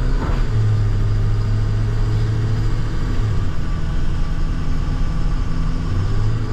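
Plow truck's engine running steadily while driving, a low hum that shifts in pitch a few times as the truck slows and speeds up.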